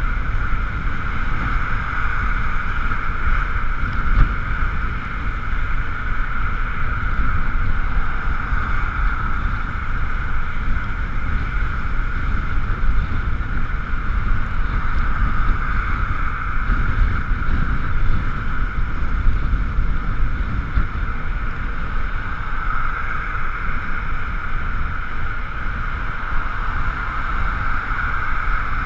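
Ekoway ML5000 electric vehicle on the move: steady wind and road rumble buffeting the mounted camera, with a constant high whine running underneath.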